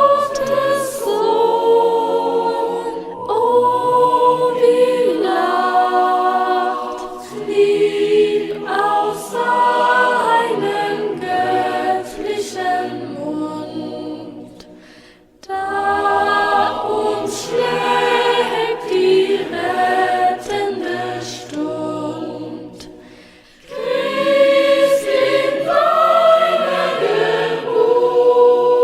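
Several voices singing a slow carol melody in long sustained phrases, with short breaths between the phrases about halfway through and again near the end.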